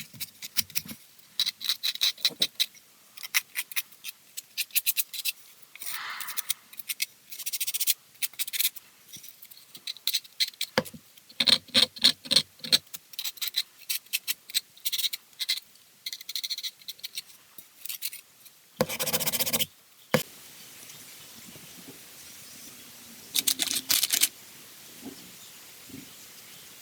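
Irregular short scrapes and clicks of hand work at a workshop bench. A louder scraping burst of about a second comes near 19 s, then a steady faint hiss with one more brief scrape.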